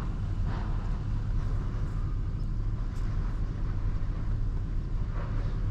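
Truck engine idling with a steady low rumble, heard from inside the cab while waiting in line.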